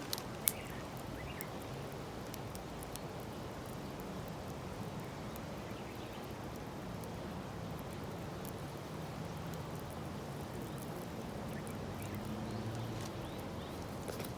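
Wood fire burning, with a steady low rush and scattered sharp crackles and pops from the firewood. One louder pop comes about half a second in.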